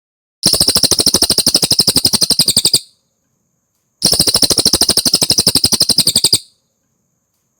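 Cililin bird song: a rapid, even trill of about 17 notes a second, given twice, each phrase lasting a little over two seconds.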